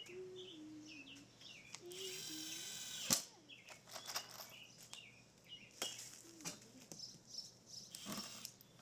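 Birds chirping repeatedly, with a loud mechanical whir about two seconds in that lasts about a second and ends in a sharp click, and another short burst of noise near the end.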